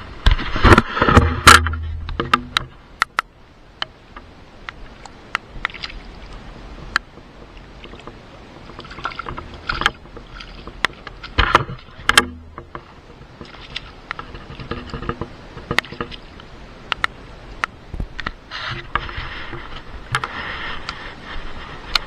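Water splashing and sloshing with scattered sharp clicks and knocks, loudest in the first two seconds and again about twelve seconds in.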